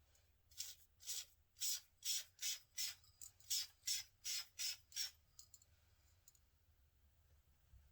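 Makeup setting spray misted onto the face with a pump bottle: about a dozen quick sprays in a rapid run, each a short hiss, stopping about five seconds in.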